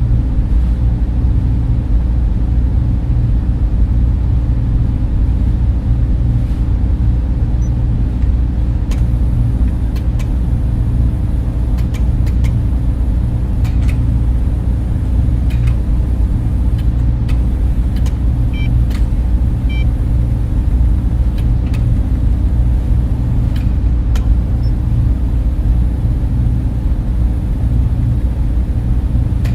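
Steady low drone of server room cooling fans, with a few faint ticks scattered through it.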